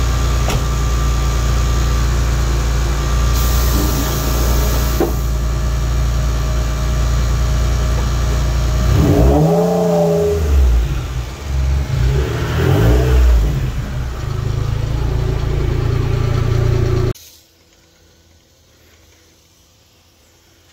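Supercharged 1995 Acura NSX's V6 idling as it warms up, with two brief revs about nine and twelve seconds in. The engine sound cuts off suddenly near the end, leaving only faint sound.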